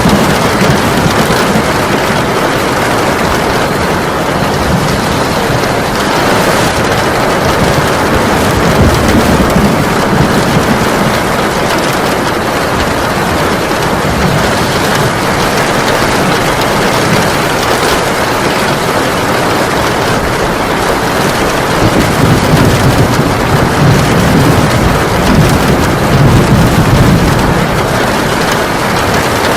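Heavy rain pouring steadily, a dense even hiss. Low rumbles swell up twice, about a third of the way in and again near the end.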